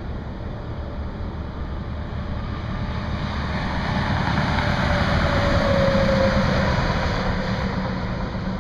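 A vehicle passing on the highway: its noise swells to a peak about six seconds in and then fades, with a faint whine that drops in pitch as it goes by, over a steady low hum and rushing noise.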